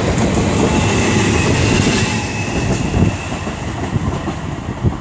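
A London Northwestern Railway Class 350 electric multiple unit running past on the rails, with wheel rumble and clatter and a faint high whine. The sound fades after about three seconds as the train moves away.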